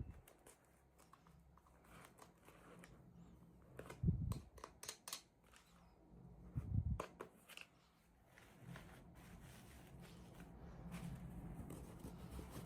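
Hands handling and opening small toy packaging: scattered faint clicks and rustles, with soft thumps about four and seven seconds in.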